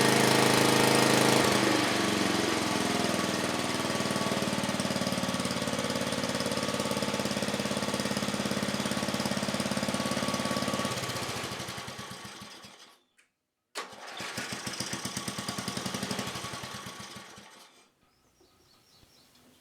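Freshly rebuilt 1984 10 HP Briggs & Stratton single-cylinder vertical-shaft engine running fast, then dropping to a lower steady speed about a second and a half in. It winds down to a stop about two-thirds of the way through, runs again for a few seconds, and winds down near the end. With new rings and reseated valves it seems to run pretty good.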